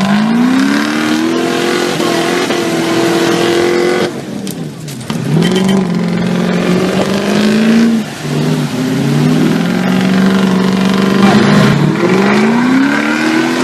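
Land Rover Discovery 2's 4.6 V8 with an aftermarket performance cam and headers, revving loudly. Its pitch climbs and holds, then falls away several times, with a clear lift-off about four seconds in.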